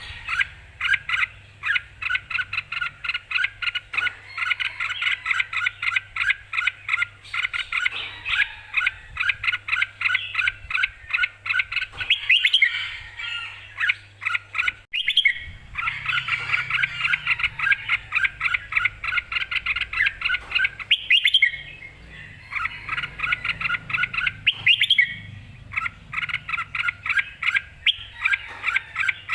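Red-whiskered bulbul chirping in long, rapid runs of short notes, about four or five a second, pausing briefly twice.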